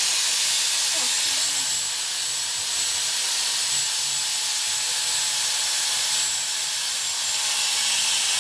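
Power tool cutting steel stock, running with a steady, hissing grind.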